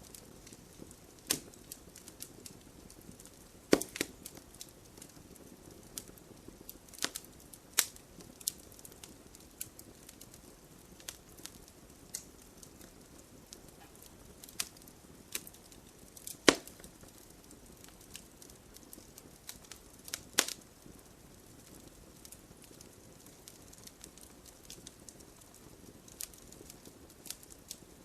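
Campfire crackling: a soft steady hiss of burning wood broken by irregular sharp pops and snaps, the loudest about 4, 8, 16.5 and 20.5 seconds in.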